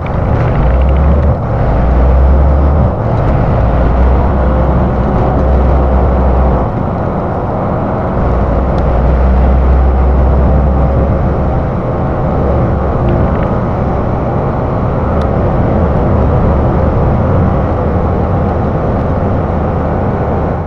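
Steady road noise of a moving vehicle: a loud, even rushing with a deep, uneven rumble underneath.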